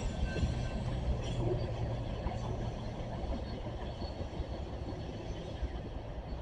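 CSX freight train running past with a steady low rumble, gradually fading as it moves off.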